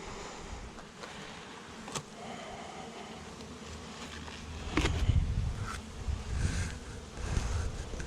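Saskatraz honeybees buzzing steadily around an open hive, loud enough to be called noisy. A low rumble comes in about five seconds in, with a couple of sharp clicks.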